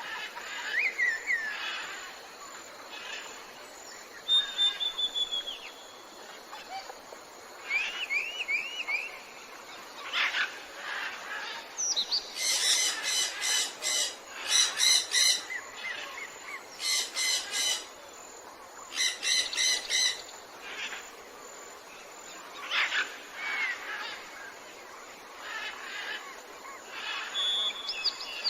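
Tropical forest ambience with many birds calling: scattered whistles, rising and falling glides and short trills. In the middle come several loud bouts of rapid, harsh, repeated calls.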